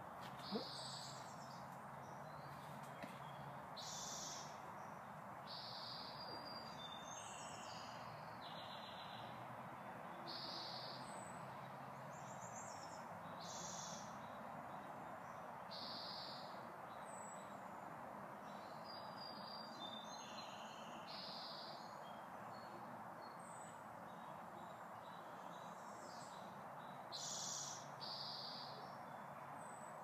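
Small birds calling over and over, short high chirps and phrases every second or two, above a faint steady background hiss. A single brief thump about half a second in is the loudest sound.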